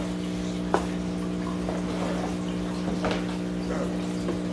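A few light clicks and faint rustles of packaging being handled while a boxed aquarium light is unpacked, over a steady low hum.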